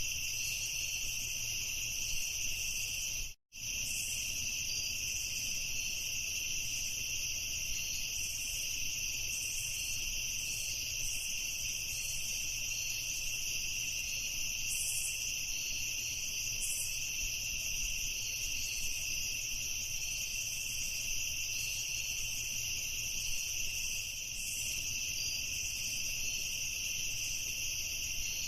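A continuous, steady chorus of chirping crickets. It cuts out completely for an instant about three seconds in.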